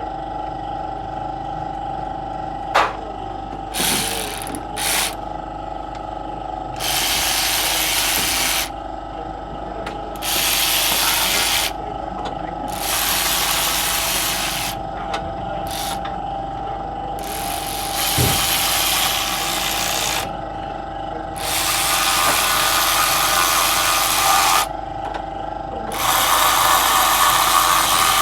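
Workshop tool work on the engine: six rasping, hissy spells of two to three seconds each, with short pauses between them, over a steady background hum.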